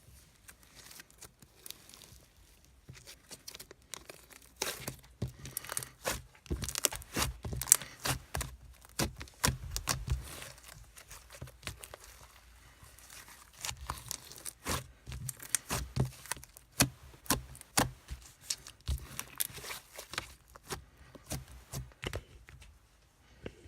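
Close-up crinkling and crackling of something being handled, in irregular runs of sharp clicks, busiest from about five seconds in and again in the second half.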